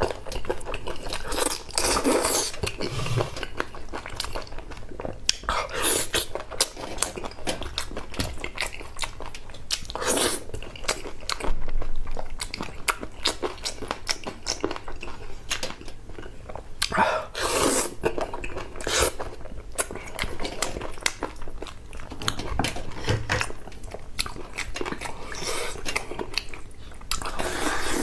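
Close-miked eating of chicken feet in chili sauce: wet chewing, sucking and smacking with small crunches and clicks, and a louder burst of wet mouth noise every few seconds.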